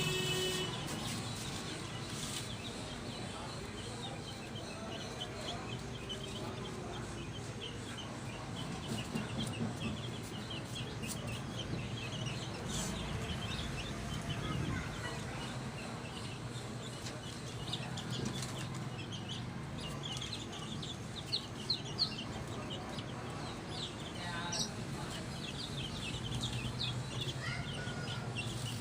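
Birds chirping and calling: many short, high chirps throughout, with a few louder arching calls near the end, over a steady low hum.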